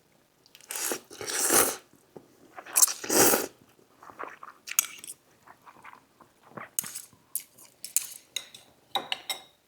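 Close-miked eating: two louder noisy mouth sounds about one and three seconds in, then a run of short, wet chewing clicks.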